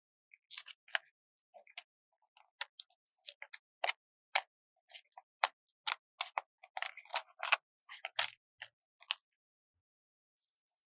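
Sticker handling close to the microphone: paper sticker sheets and stickers being peeled and pressed, heard as irregular crisp ticks and short crackles with quiet gaps between them. The sounds stop about nine seconds in.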